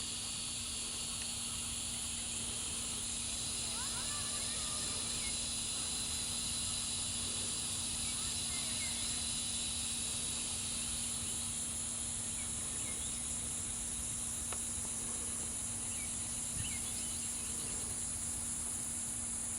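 Steady, high-pitched insect chorus that holds unchanged throughout, with a steady low hum underneath and a few faint chirps about four seconds in.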